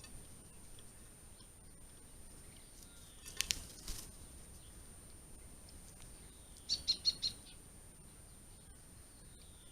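Small garden birds calling: faint falling whistled notes every three seconds or so, a short cluster of sharp sounds about three and a half seconds in, and a quick run of four high chirps about seven seconds in.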